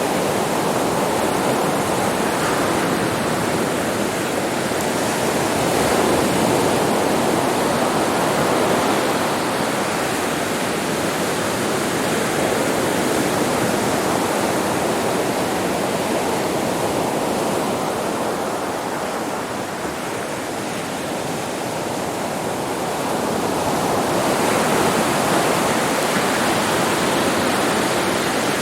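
Sea waves washing onto a beach: a continuous surf wash that eases off about two-thirds of the way through and swells again near the end.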